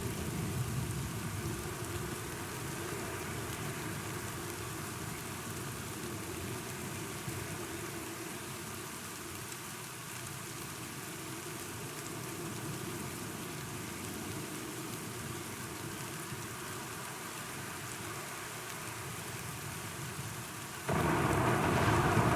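Steady rainfall during a thunderstorm, with a low thunder rumble fading out over the first few seconds. Near the end the rain suddenly gets louder.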